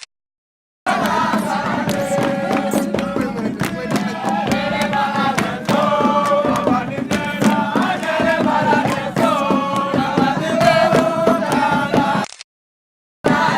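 Voices singing together in a chant over sharp percussive beats. The sound cuts out completely for about a second at the start and again for about a second near the end.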